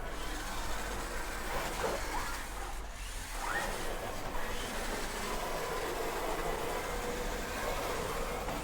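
Small electric motors of remote-control cars whining as they drive, the pitch rising and falling a few times, over a steady hiss.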